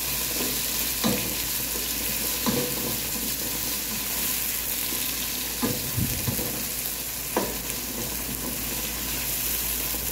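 Sliced onions and tomatoes sizzling in hot oil in a nonstick pot as a wooden spatula stirs them, with a few short knocks of the spatula against the pot.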